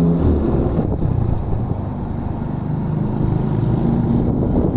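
Motorcycle running on the road, a steady engine rumble mixed with dense noise.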